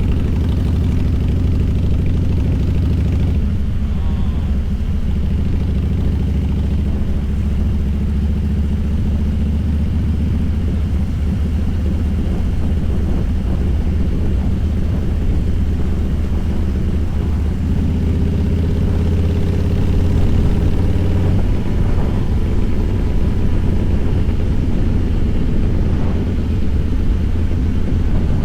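Harley-Davidson Fat Boy's air-cooled V-twin engine running steadily under way, a loud deep note with slight shifts in pitch a few seconds in and again past the middle.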